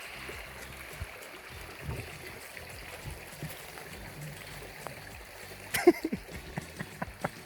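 Quiet steady water noise, then about six seconds in a quick run of splashes and knocks at the surface: the 'plouf' of a carp taking the floating pellet fly.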